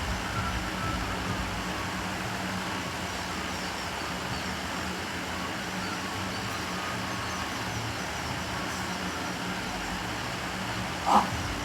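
Steady background noise with a constant low hum, and one short, sharp sound near the end.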